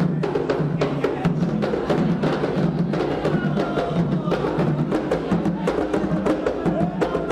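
Candomblé ritual drumming: atabaque hand drums playing a fast, steady rhythm with a sharp clicking part like a wood block or bell over it.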